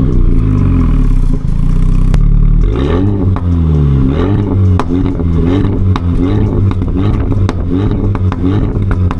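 Renault Mégane RS Trophy's 1.8-litre turbocharged four-cylinder running through its Akrapovič exhaust: a steady note for about two seconds, then revved in short blips roughly once a second, with sharp cracks between the revs.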